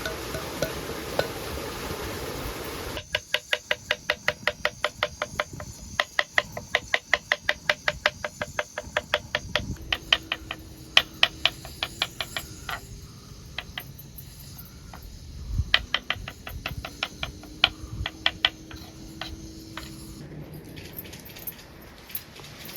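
A steady hiss, then about three seconds in a quick run of sharp, evenly spaced taps begins, about four a second, becoming sparser and stopping near the end.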